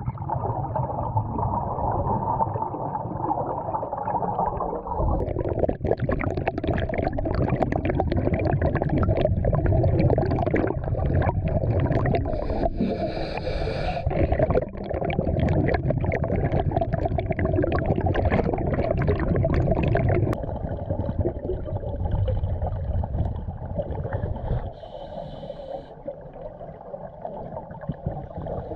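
Underwater gurgling and bubbling water noise from scuba diving, full of small crackles and pops, changing abruptly about five seconds in and again about twenty seconds in.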